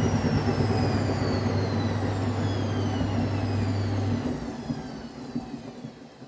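Vestel washing machine's motor and drum spinning down after a high-speed spin in service test mode: a whine falling steadily in pitch, with a steady low hum that cuts out about four seconds in as the machine fades away.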